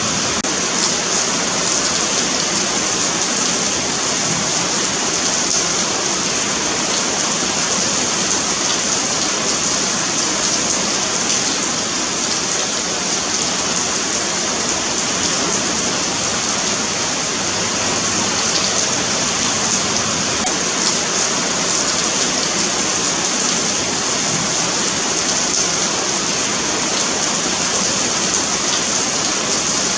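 Steady rain falling on a paved sidewalk, a continuous even hiss with faint patter of drops.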